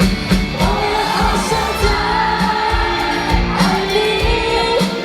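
Live pop song: female singing over a backing track with a steady beat.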